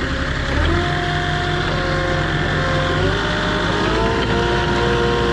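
Heavy vehicle's engine running steadily, its pitch stepping up and down a few times as the revs change.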